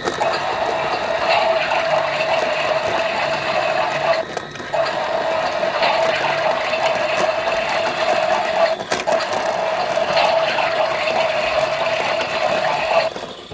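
Toy washing machine running a wash cycle: a steady motor hum under a rushing, water-like washing sound, with two short breaks.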